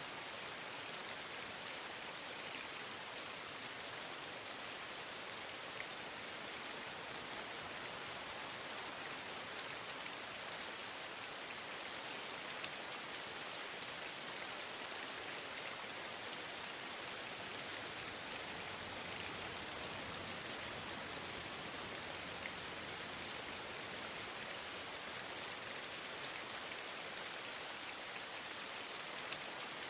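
Steady rainfall: an even, continuous hiss of rain with scattered faint drop ticks.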